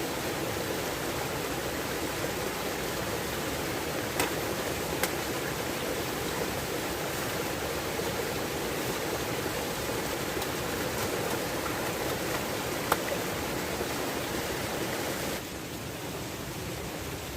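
Steady rush of running water, with a few faint sharp ticks. The rush drops a little in level about fifteen seconds in.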